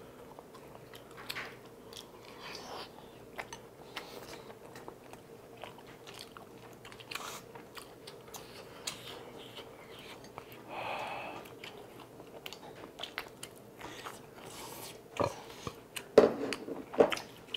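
Close-miked eating sounds: chewing and mouth noises from people eating spicy tteokbokki, with light clicks of chopsticks. There is a short breathy sound about eleven seconds in and a few louder knocks near the end.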